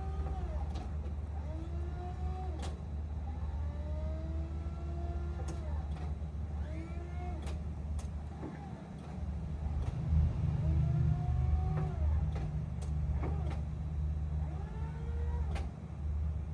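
Electric motors of a Hyster N45ZR2 electric reach truck whining up and then back down in pitch, over and over in short spurts of about a second, as its functions are worked. Sharp clicks come in between the whines, over a steady low hum.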